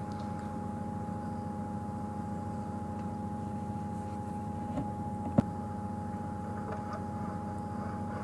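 Game-drive vehicle's engine idling steadily, with one sharp click a little past the middle.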